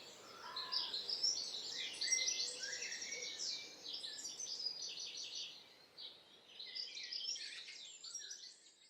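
Small songbirds singing: quick, high twittering and trilling phrases, with a short lull about two-thirds of the way through, then the song cuts off at the end.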